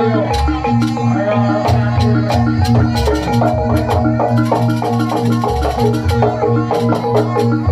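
Javanese jaranan ensemble music: tuned gongs and metallophones play a repeating melodic pattern over steady low gong notes, with frequent drum and cymbal strikes.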